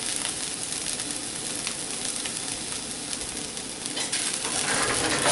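Sabudana khichdi (tapioca pearls, potato and crushed peanuts) sizzling steadily as it fries in the pan, getting louder about four seconds in.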